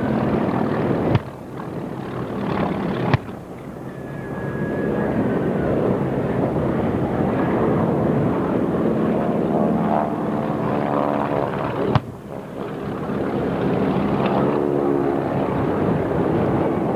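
Propeller airplane engine running in flight, its pitch shifting as it passes. Three sharp clicks, about a second, three seconds and twelve seconds in, each followed by a brief drop in level.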